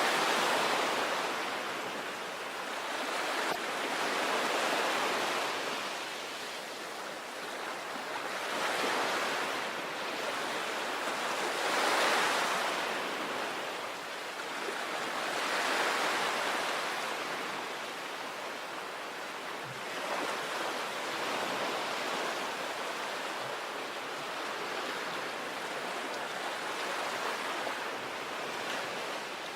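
Sea waves breaking and washing on a shore: a continuous rushing hiss that swells and fades every few seconds as each wave comes in and draws back.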